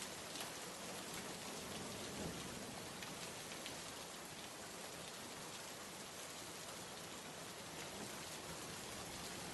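Steady rain falling: an even hiss with faint scattered taps of drops.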